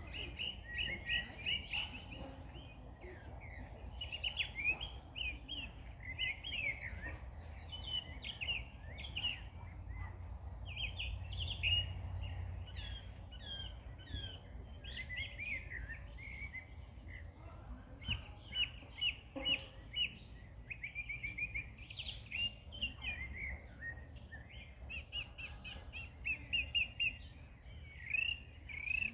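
Several small birds singing and chirping in quick, overlapping phrases, over a steady low rumble.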